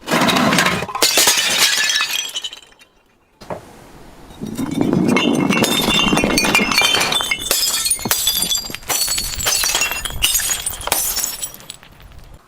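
Glass bottle being crushed and shattered: dense crunching and cracking of glass, a brief pause about three seconds in, then more crunching with shards clinking and ringing in short high notes, dying away near the end.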